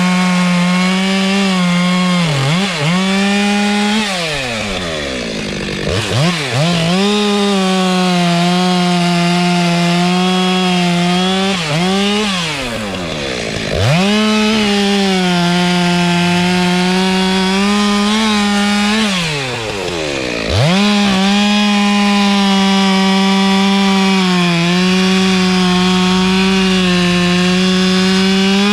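Chainsaw cutting into a heavy tree trunk at full throttle, its engine held at a steady high pitch for long stretches. Several times the throttle is let off, so the pitch falls away briefly, then it revs back up into the cut.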